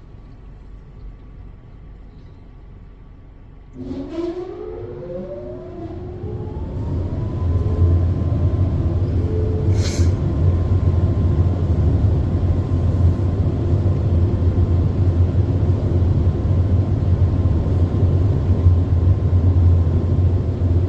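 Dryer blowers of a Ryko Softgloss MAXX 5 in-bay car wash starting up about four seconds in, after the spot-free rinse. A whine rises as the fans spin up, then levels off into loud, steady blowing with a deep hum. Before that there is only a quieter steady machine hum.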